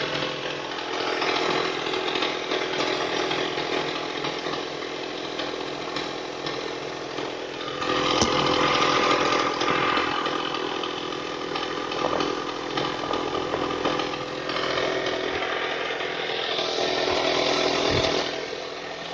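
Mitsubishi 4G69 2.4-litre four-cylinder petrol engine running with a buzzing mechanical noise, the extraneous noise being checked in this engine. It gets louder for a couple of seconds about eight seconds in and again near the end, with a sharp click just as the first swell begins.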